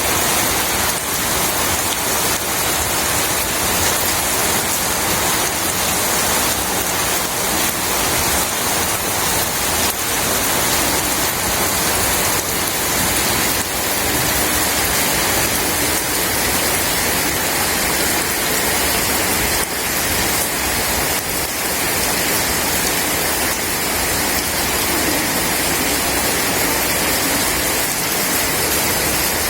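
Steady, heavy rain falling in an even, unbroken hiss.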